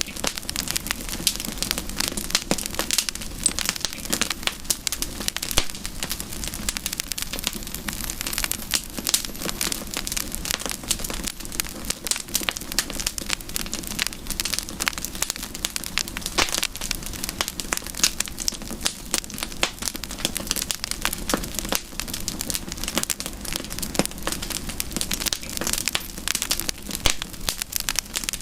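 Campfire crackling steadily, a dense, unbroken run of small pops and snaps.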